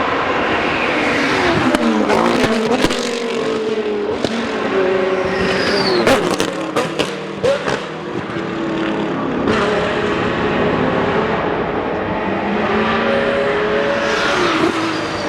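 GT racing cars passing at speed, their engines revving with falling pitch as they come off the throttle and downshift. A series of sharp cracks comes twice, a couple of seconds in and again around the middle.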